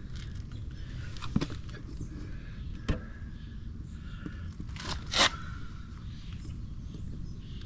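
Handling noises: a few short knocks and a scrape over a steady low rumble, with the loudest scrape a little past the middle.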